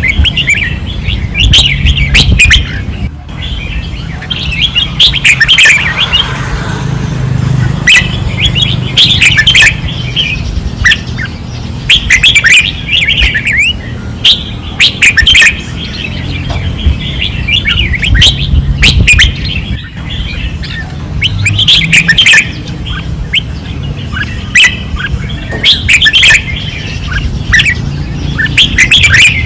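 Red-whiskered bulbuls singing vigorously, short bright warbled phrases repeated every second or two, over a low rumble.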